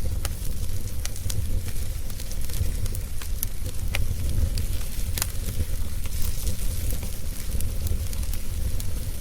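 Campfire burning, its wood crackling with irregular sharp pops, a few louder ones around the middle, over a steady low rumble.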